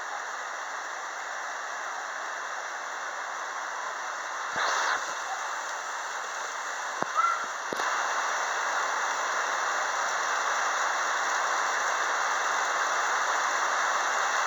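Steady rain falling, an even hiss. It swells a little in the second half, with a brief louder burst about four and a half seconds in and a couple of sharp knocks around seven seconds.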